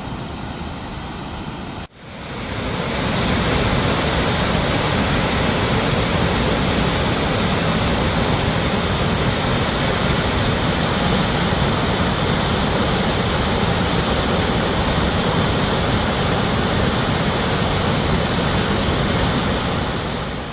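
Magod Falls, the Bedti River's plunge of about 650 feet, heard from a viewpoint as a loud, steady roar of falling water. It fades in about two seconds in, after a brief quieter stretch, and fades out at the very end.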